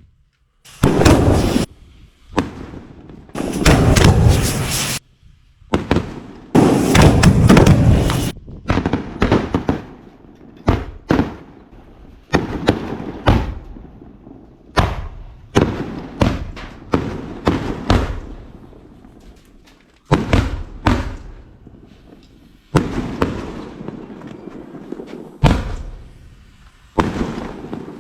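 Northeast Chinese double-kick firecrackers (erti jiao) going off one after another in a chain. Loud sharp bangs with echo come in dense bursts for the first eight seconds or so. After that, single bangs follow at irregular gaps of roughly half a second to a couple of seconds.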